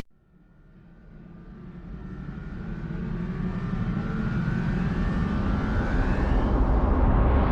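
A vehicle engine rumble with a faint whine above it, fading in right after a sudden cut and swelling steadily louder.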